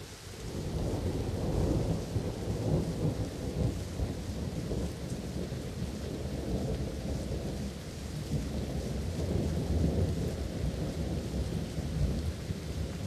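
A long rolling rumble of thunder that comes in suddenly and swells over about a second, then rumbles on unevenly, over steady rain.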